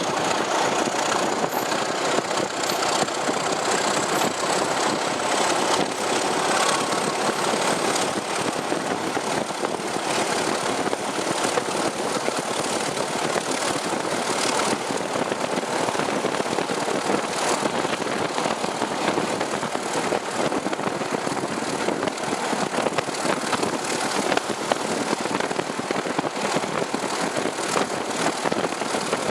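Heritage diesel train engine running steadily under power, with a faint high whine that slowly climbs in pitch.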